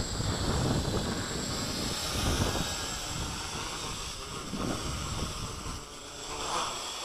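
Small electric radio-controlled model aircraft flying, its motor giving a steady high whine, with wind rumbling on the microphone.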